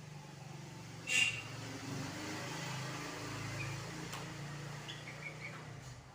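Steady low mechanical hum, like distant road traffic, with a sudden short loud crackle about a second in and a few faint high chirps around five seconds in.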